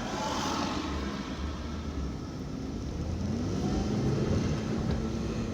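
A 50cc moped engine revving behind the car, its pitch rising about halfway through, over the low rumble of the car being driven.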